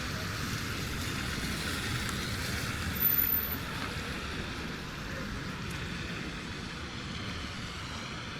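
Steady rush of road traffic on a city street, with wind on the microphone; a brief louder moment about three seconds in.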